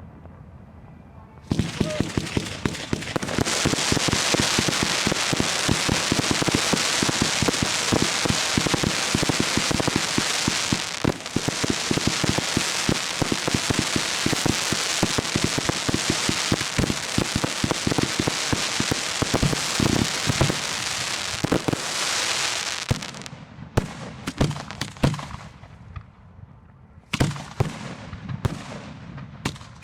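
Fireworks display heard up close from the launch site: a dense, unbroken barrage of rapid reports and crackling starts about a second and a half in and runs for about twenty seconds, then thins out to scattered single bangs near the end.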